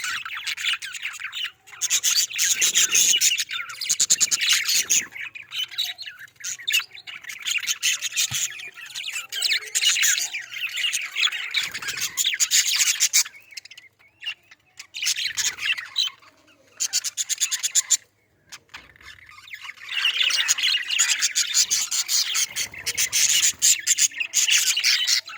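Colony of budgerigars chattering and squawking together, a dense twittering that goes on in long stretches with a few brief lulls.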